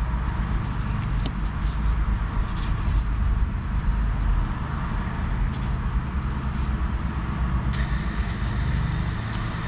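Steady low rumble of a motor vehicle running nearby, with a hiss that comes in suddenly about eight seconds in.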